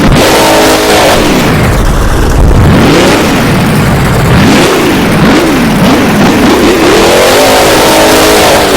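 Monster truck's supercharged V8 revving up and down over and over during a run, its pitch rising and falling in quick swings. The recording is overdriven and distorted.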